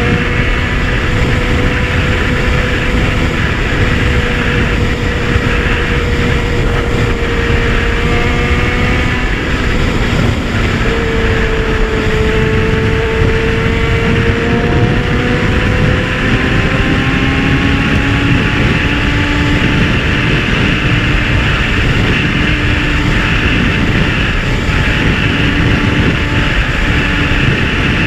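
Kawasaki Z1000 inline-four engine running at a steady cruise, its pitch drifting slowly up and down with gentle throttle changes, under a heavy rush of wind noise.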